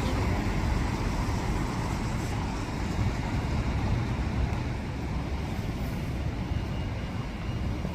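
Steady street noise of road traffic running past.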